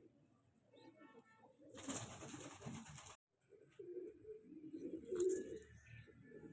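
Pigeons cooing in low, repeated phrases. About two seconds in there is a second-long burst of hissing noise, and the sound cuts out briefly just after it.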